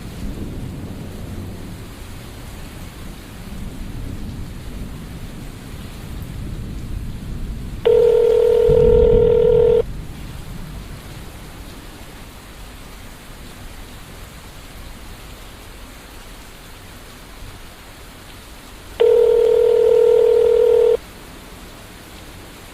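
Rain with a low rumble of thunder, strongest about a third of the way in. A telephone ringback tone sounds twice, about two seconds each time: once about a third of the way in and once near the end.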